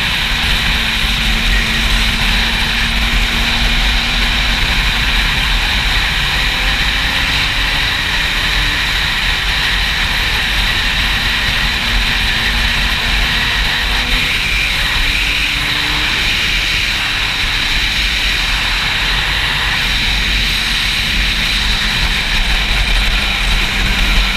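Steady wind noise buffeting the microphone on a moving Yamaha YZF-R6 sport bike, with the bike's inline-four engine faint underneath, its tone slowly rising and falling as the revs change.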